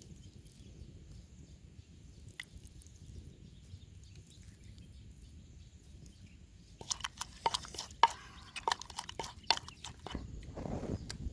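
A low, steady rumble, then, about seven seconds in, a quick run of sharp clicks and knocks lasting about three seconds, followed by a brief low swell near the end.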